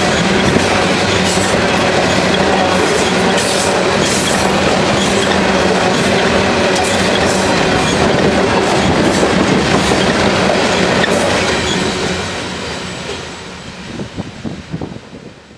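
Loaded coal hopper cars of a freight train rolling past at speed, steel wheels clicking over the rail joints. The end of the train goes by about twelve seconds in, and the sound fades away as it recedes down the line.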